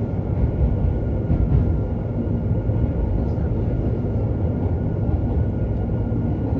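Inside a JR Hokkaido 731 series electric train car (MoHa 731-109) running at speed: a steady low rumble from the motors and wheels on the rails, with a faint steady whine. This car's Otaru-end bogie traction motor gives an abnormal roar like an old nose-suspended (tsurikake) motor, unusual for this quiet inverter-driven type.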